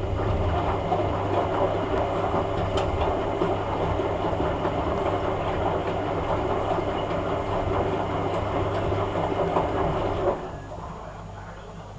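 Hoover A3786 Logic washing machine running with a steady hum and a rumbling, churning noise, which starts suddenly and cuts off about ten seconds in.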